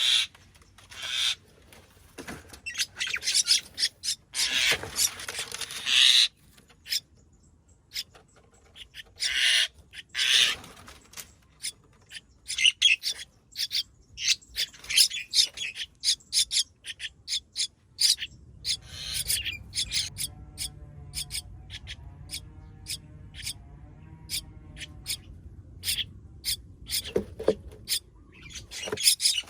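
Nestling birds calling with many short, sharp, high chirps, some in quick runs, and a few longer noisy bursts near the start. A low hum joins about two-thirds of the way through.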